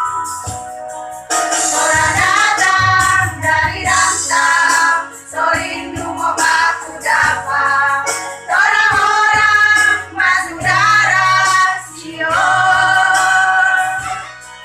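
Women's choir singing over musical accompaniment with a low bass line, in sung phrases separated by short breaks.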